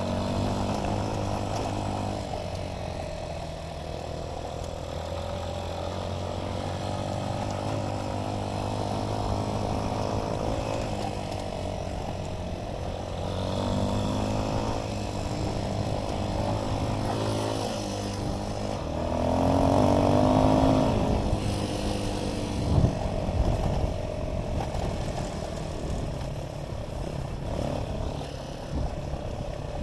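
Dirt bike engine running under way, its note rising and falling with the throttle, with a louder rev about two-thirds of the way through and a sharp knock shortly after.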